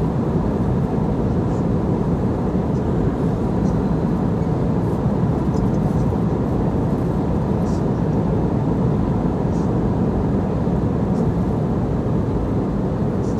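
Steady low cabin noise of an airliner in flight, the engine and airflow roar heard from a passenger seat, with faint scattered ticks over it.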